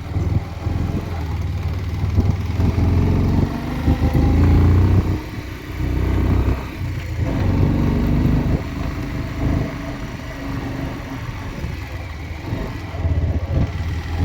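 Motorcycle engine labouring up a steep hill under load, its note rising and falling with the throttle and dropping briefly twice a little past the middle; the bike is struggling to climb.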